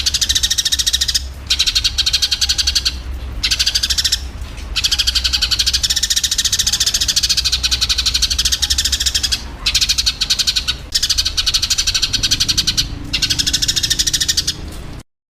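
Eurasian tree sparrows chirping in fast, dense runs broken by brief pauses: the agitated calls of sparrows fighting. A steady low hum runs underneath, and the sound cuts off suddenly near the end.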